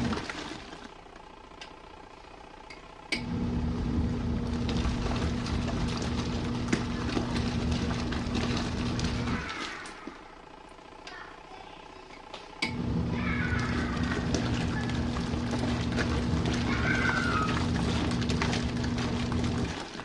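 Small RV washing machine agitating in its main wash: the motor runs with a steady hum for about six seconds, stops for about three, then starts up again for about seven seconds, cutting off abruptly each time.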